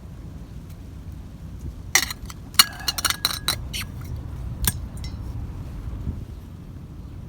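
Metal camp gear clinking: a quick run of light clinks with a short ring about two seconds in, then one more clink near five seconds, over a steady low wind rumble on the microphone.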